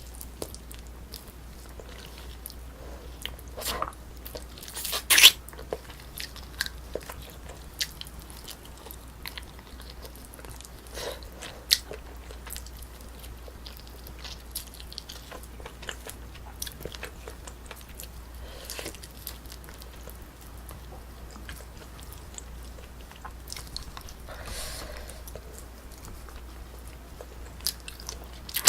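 Close-miked eating sounds of someone eating braised spicy chicken: chewing and biting with many scattered small clicks, and one sharper click about five seconds in.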